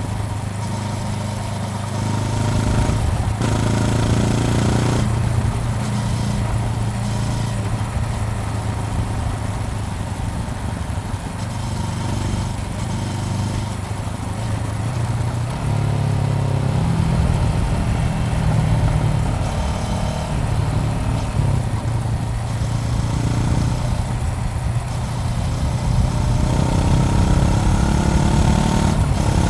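Honda CBR400R's parallel-twin engine running, its low steady note shifting in pitch several times, with a haze of wind or road noise over it.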